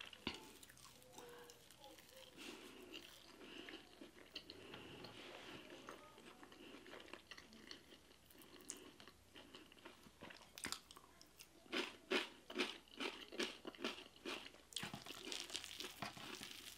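Close-miked chewing and mouth sounds of someone eating injera with stews, faint at first, then a quick run of short wet smacking clicks in the second half.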